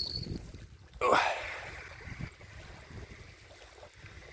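Wind buffeting the microphone over small waves lapping, with a sudden gust about a second in. A fishing rod's little bite bell rings briefly at the start and fades as it is taken off.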